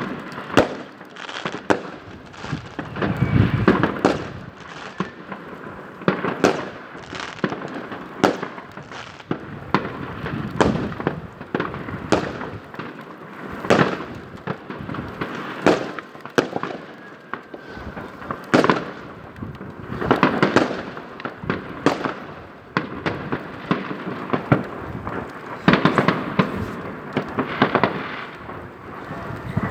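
New Year's Eve fireworks and firecrackers going off: a dense, irregular run of sharp bangs and crackling, some bangs trailing off in a short echo. A faint whistle glides near the end.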